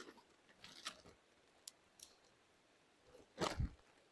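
Faint handling of small camp coffee gear: a few light clicks and ticks, then a louder crunching rustle about three and a half seconds in.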